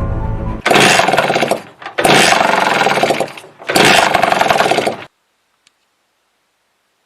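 A small engine or motor run up loud in three bursts of about a second each, with short gaps between. The sound then cuts off abruptly to silence. Background music fades out just before the first burst.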